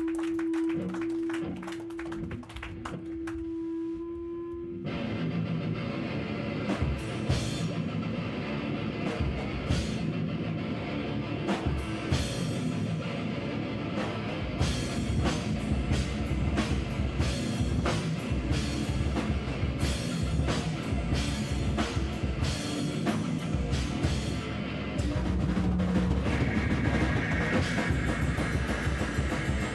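Live noise-rock band playing with drum kit and guitar. A single steady held tone opens, and about five seconds in the drums and full band come in, with fast, dense drum hits.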